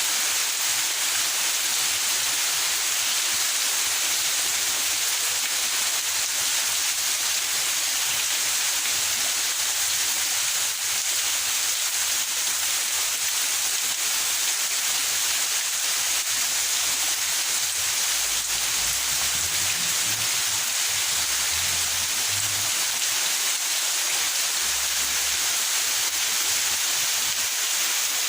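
Steady rain falling in a backyard: a constant even hiss of rain with no let-up.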